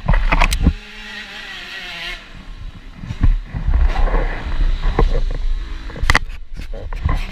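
TM Racing 250 Fi motocross bike's engine running and revving under the rider, with heavy wind buffeting and irregular thumps on the microphone.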